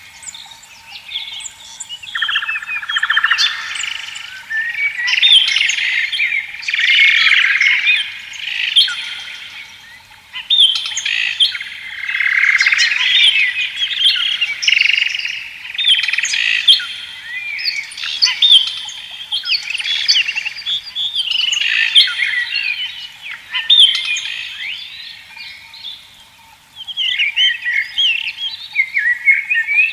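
Several songbirds singing at once in a dense chorus of overlapping chirps, whistles and trills, with short lulls, including one about 26 seconds in.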